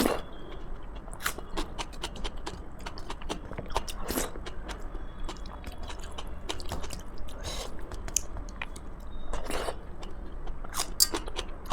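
A person eating close to the microphone: chewing and biting, with many short wet mouth clicks and smacks.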